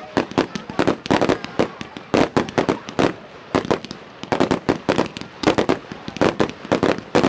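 Fireworks bursting in quick, irregular succession, several loud bangs a second.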